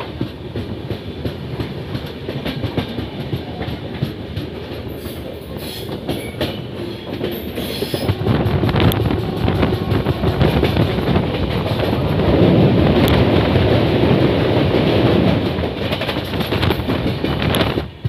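Sikkim Mahananda Express passenger train running, its wheels clattering over rail joints with a steady rumble. It grows louder about halfway through and cuts off abruptly near the end.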